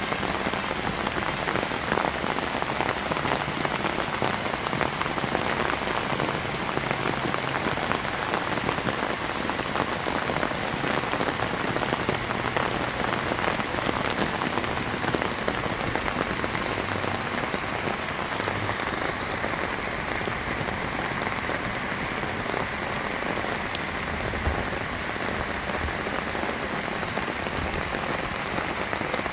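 Steady rain falling on a wet paved yard and its puddles, a dense even hiss flecked with the ticks of single drops.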